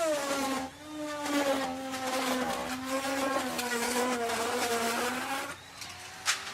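Electric wood router cutting into wood. The motor's whine drops in pitch as the bit takes the load and runs lower with the rasp of the cut, briefly easing about a second in. Near the end the pitch rises again as the bit comes free, followed by a single sharp knock.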